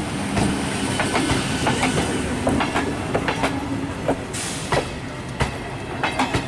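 Indian Railways electric multiple unit (EMU) train passing close by: steady running noise from the coaches, with the wheels clattering over the rail joints in a run of irregular clicks and knocks.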